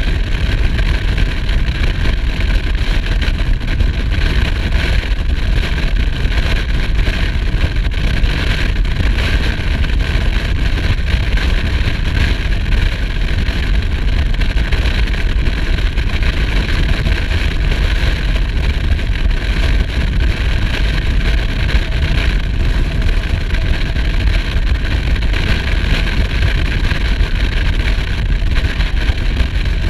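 Motorcycle running steadily at cruising speed, heard from the bike with wind and road noise, with no change in pitch or level.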